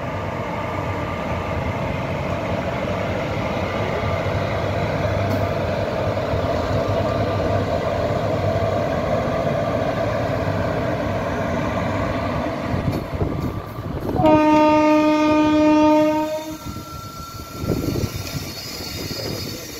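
Electric passenger train of Indian Railways running past close by, with a steady rumble of wheels and locomotive. About fourteen seconds in, its horn sounds one long blast of about two seconds, the loudest sound here. The coaches then roll on more quietly.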